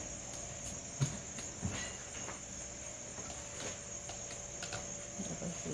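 Night insects chirring in a steady, high-pitched continuous drone, with a single soft knock about a second in.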